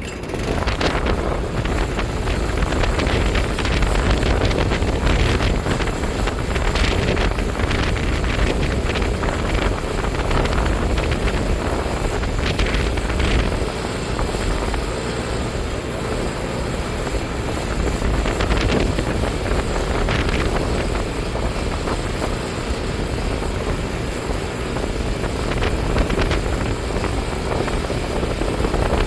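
Iseki TJ75C semi-crawler tractor's diesel engine running steadily, with wind buffeting the microphone.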